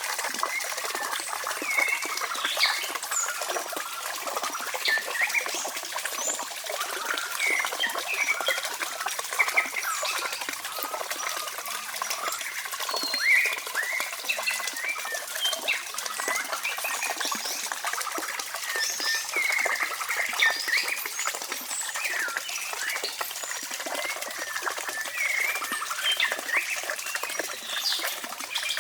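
Many birds chirping and calling, a dense chorus of short calls over a faint steady hiss.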